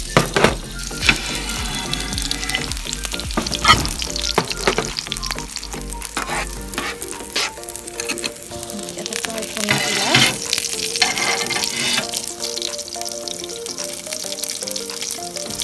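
Beef burger patties sizzling and crackling in a very hot cast-iron sizzler pan, with sharp spits and pops of fat, loudest in the first few seconds. A low rumble runs under the first half and stops about seven seconds in.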